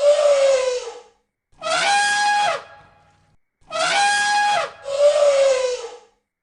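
Four loud, trumpet-like animal calls about a second each with short gaps between them. The first and last slide down in pitch, and the middle two hold a steady higher note before dropping off.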